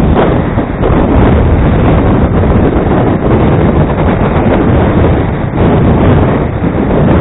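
Antarctic blizzard wind of over 60 knots blasting the microphone: a loud, steady rush of noise, heaviest in the low end, with only slight dips.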